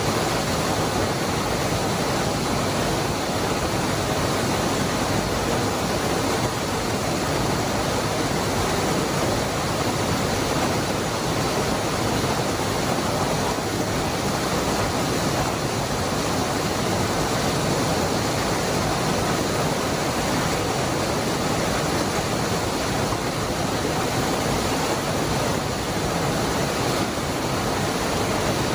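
Waterfall rushing steadily, the Cascada del Hervidero's falling water making an even, unbroken roar.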